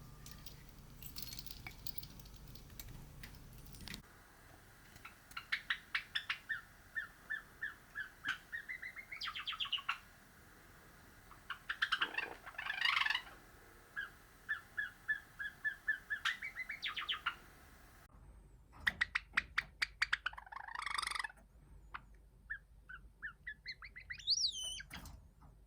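Java sparrow singing in several separate song bouts: runs of rapid clicking notes that speed up into a chattering trill, with a few high whistled glides near the end.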